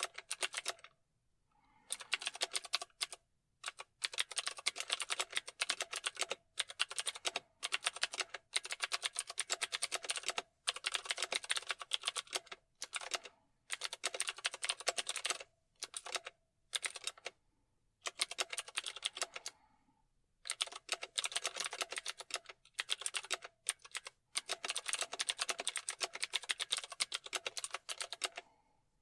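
Computer keyboard typing: rapid runs of key clicks in bursts of a second or a few seconds, broken by brief pauses.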